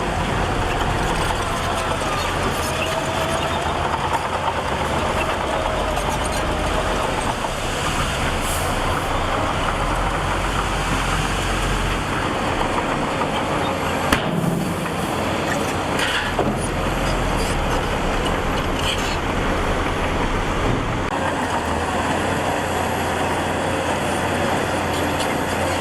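Heavy earthmoving machinery's diesel engine running steadily, with one sharp click about halfway through.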